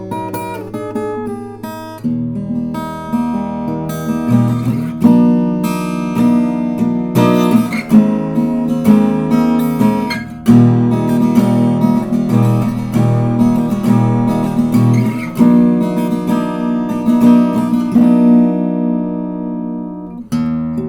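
Stafford SLG-360E acoustic-electric guitar strummed in full chords, with one chord left ringing and fading near the end before another strum.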